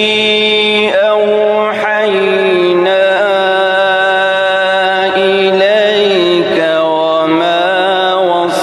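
A male voice chanting Quran recitation (tajwid) in long, drawn-out melodic phrases. He holds sustained notes that shift slowly in pitch with small ornamental turns.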